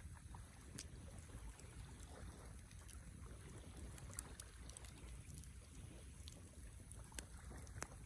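Wood campfire burning faintly, with scattered sharp crackles and pops over a low rumble.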